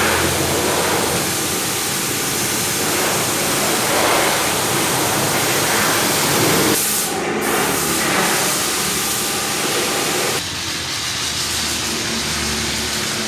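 Water spraying onto a car at a car wash, a steady dense hiss of spray. About ten seconds in the sound changes and gets slightly quieter.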